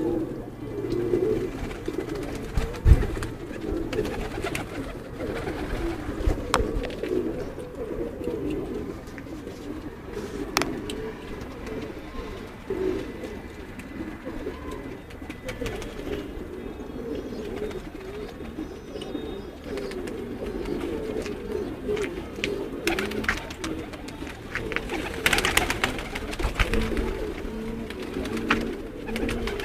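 Many domestic pigeons cooing together, their overlapping low coos running on without a break, with a few sharp clicks here and there.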